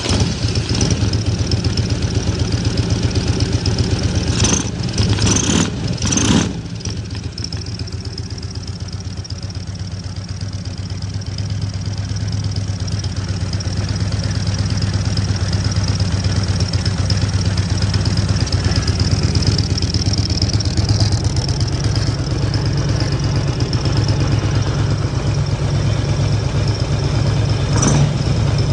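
Car engine idling just after being started, with a steady pulsing low hum. A few brief sharper sounds come about four to six seconds in, and the engine grows slowly louder through the second half.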